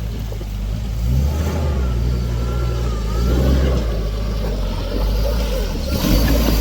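Off-road 4x4 truck's engine running steadily under load, a deep continuous rumble as the rig works along the trail.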